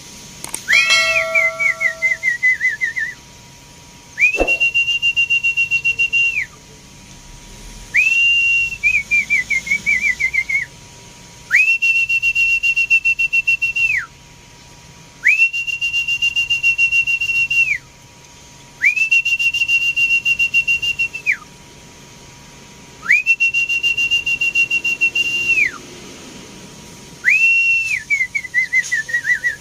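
A high-pitched whistle sounds about eight times, each note held steady for about two seconds with quiet gaps between. Several of the notes end in a falling, stepped warble.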